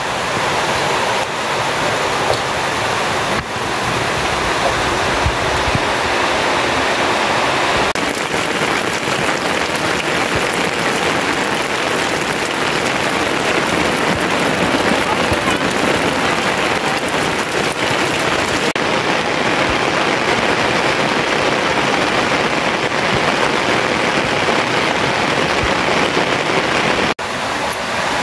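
Steady heavy rain, an even rushing hiss of water. Its tone changes abruptly about eight seconds in and again about nineteen seconds in, and it cuts out for a moment near the end.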